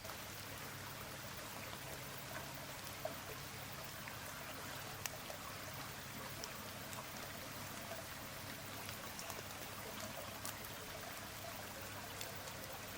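Steady rain falling, with scattered drops ticking on wood and leaves.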